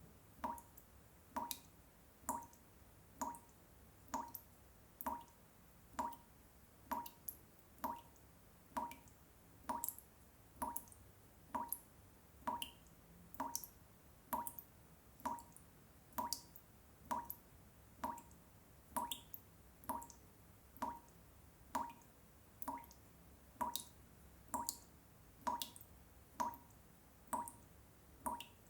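Water dripping drop by drop at a steady, even rhythm, a little faster than one a second. Each drop is a short plop with a bright click.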